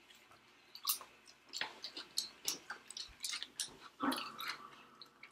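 Chewing and small mouth noises of people eating, with scattered short clicks and taps of forks on plastic plates.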